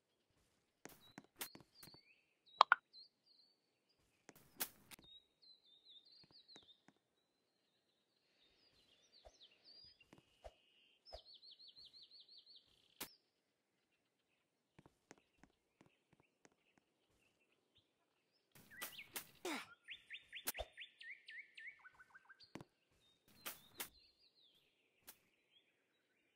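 Small birds chirping and singing faintly, with two fast trills of rapidly repeated notes, one near the middle and one about three quarters of the way through, among scattered sharp clicks and knocks.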